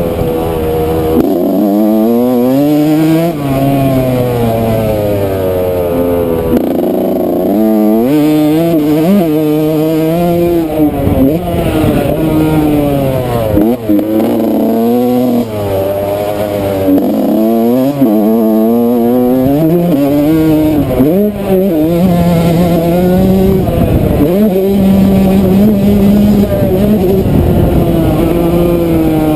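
Yamaha YZ125 two-stroke dirt bike engine ridden hard, its pitch climbing under throttle and dropping back over and over as the rider opens and closes the throttle through a motocross lap.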